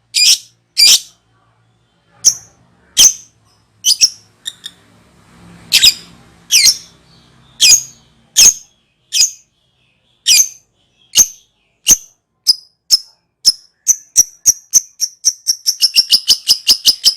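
Lovebird giving sharp, high chirping calls about one a second, which speed up near the end into a fast chattering run: the start of its ngekek, the long trilling song.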